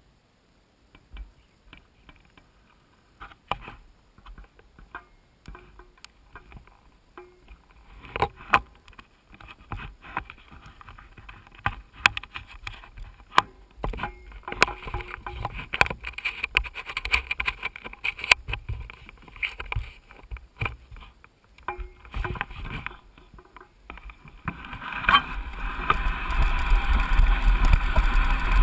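Mountain bike with a GoPro aboard: scattered clicks, knocks and rattles of the bike and camera mount, growing denser, then near the end a steady, louder rush of wind and tyre noise as the ride picks up speed.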